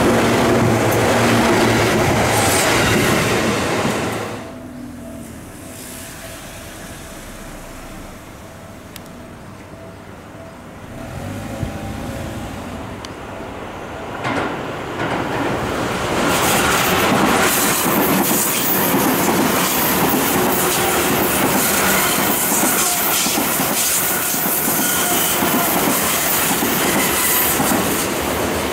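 Electric commuter trains on the Seibu Shinjuku Line passing at track level. A yellow train's run-by dies away about four seconds in. After a quieter stretch, a Seibu 20000 series train approaches, and the wheel and rail noise grows until it passes loudly from about 16 seconds on, the wheels clattering over the rail joints.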